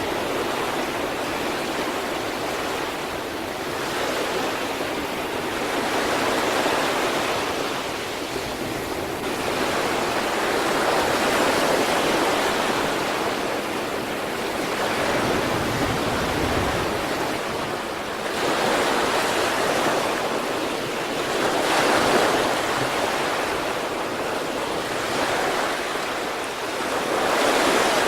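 Sea waves breaking on the shore in a continuous wash of surf, swelling and ebbing as each wave comes in, roughly every three to five seconds.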